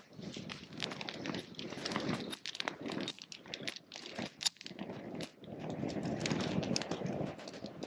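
Wood bonfire crackling, with sharp irregular pops over a low rushing of the flames.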